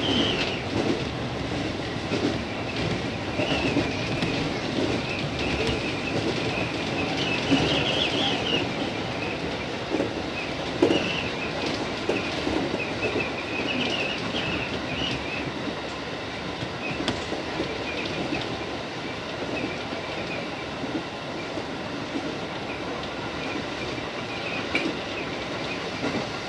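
JR East 205 series electric train running, heard from inside the front car: a steady rumble of wheels on rail with a few sharp rail-joint clicks and a wavering high squeal that comes and goes.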